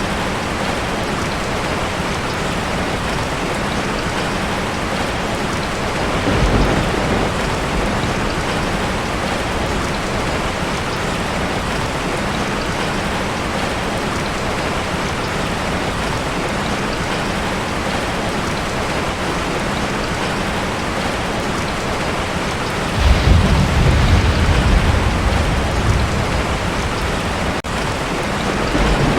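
Heavy rain drumming steadily on a tin roof, with a short low rumble of thunder about six seconds in and a louder, longer roll of thunder near the end.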